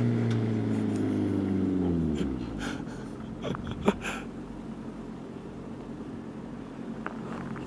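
Car engine fading away as the car drives off down the road, its note falling in pitch until it dies out about two seconds in. A faint low hum follows, with a sharp click about four seconds in.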